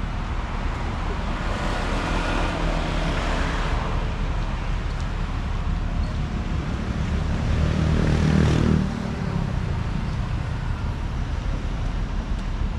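Road traffic passing close by: a motor vehicle goes past about two seconds in, then a louder one with a deep engine note passes about eight seconds in and fades quickly, over a steady hum of traffic.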